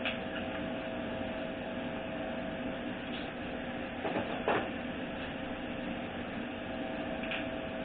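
Steady background hum with a few short metal clinks of sockets being tried on a transmission pressure sensor. The clearest two come about four seconds in, close together.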